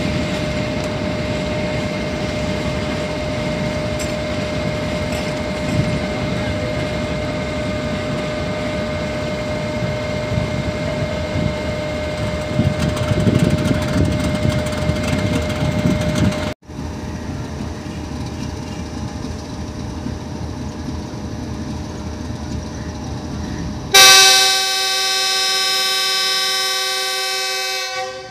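Freight train wagons rolling past with a steady rumble and a constant high ringing tone, then after a break more rolling noise. Near the end a diesel locomotive's multi-tone air horn sounds one loud blast, strongest at its onset, held for about four seconds.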